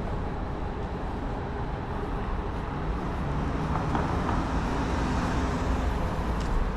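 City road traffic: vehicle engines running past in a continuous low rumble, with engine pitches shifting as vehicles move.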